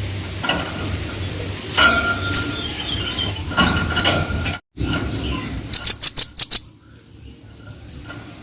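Velvet-fronted nuthatch calling: short, sharp, high chipping notes, then a rapid run of about six loud notes about two-thirds of the way through. A steady low hum lies underneath, and the sound drops out completely for a moment a little past halfway.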